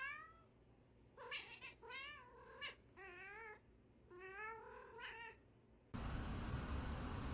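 Cat meowing repeatedly, about six drawn-out calls with a wavering, yowling pitch.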